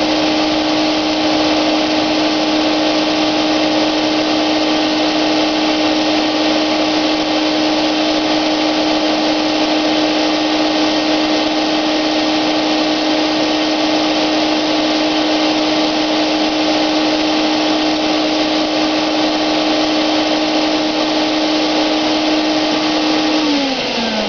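Wagner electric paint sprayer's motor running with a steady, loud whine and hiss, then switched off near the end, its pitch falling as it winds down.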